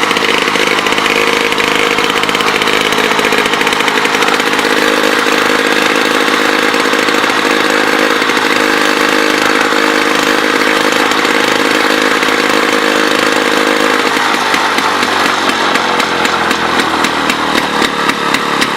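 Old diesel engine running loud and steady, its rapid firing beats even throughout and standing out more clearly in the last few seconds.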